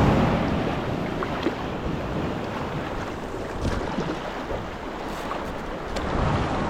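Sea waves washing on the shore, loudest at the start, with wind on the microphone.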